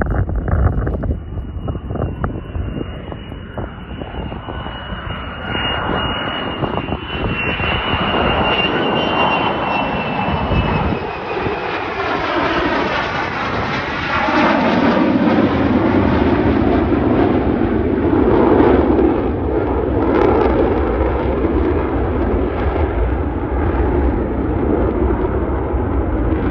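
Two F-35 fighter jets flying past, each with a single F135 turbofan engine. A high jet whine, dipping slightly in pitch, runs over a broad roar; about halfway through it gives way to a louder, deeper rumble as the jets pass.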